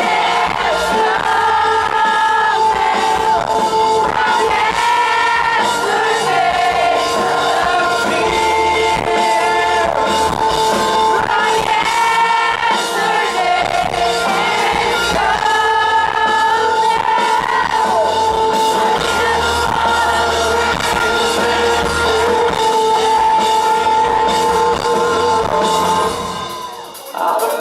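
Live rock band playing with a male singer's vocal line over steady sustained keyboard or guitar tones; the music dips briefly near the end and then comes back.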